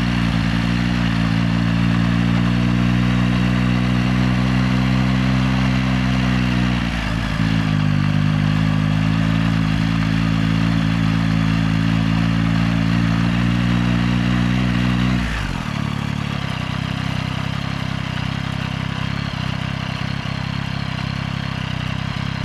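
Yamaha XSR900's three-cylinder engine running at steady revs, with a brief dip in pitch about seven seconds in. About two-thirds of the way through the engine note drops and gets quieter.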